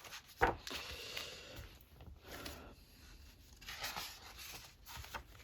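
Pages of a colouring book being turned: paper rustling and swishing in several passes, with a sharp snap of paper about half a second in.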